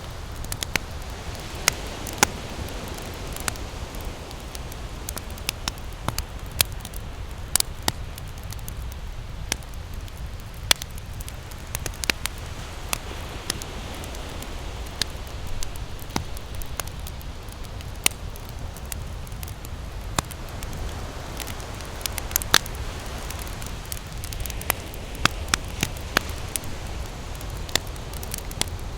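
Campfire crackling, with frequent sharp, irregular pops over a steady low rush of ocean surf that swells and eases slowly.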